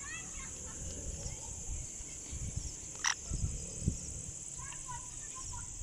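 Steady high-pitched insect drone, with faint short bird chirps near the end and one brief sharp call about three seconds in.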